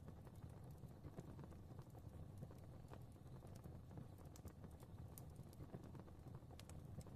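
Fireplace fire crackling faintly: irregular small snaps and pops, a few each second, over a low steady rumble of flames.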